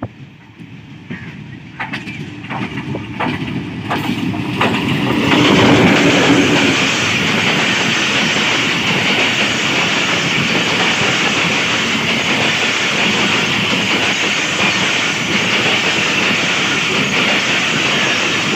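A passenger train passing close by at about 50 km/h. As the locomotive nears there are a few sharp clacks of wheels over the rails, and the sound is loudest as it goes by about six seconds in. Then comes the steady clatter of the coaches rolling past.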